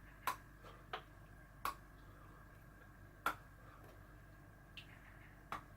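Chocolate bar being bitten off in pieces: about five faint, sharp snaps at uneven intervals as bits of chocolate break off.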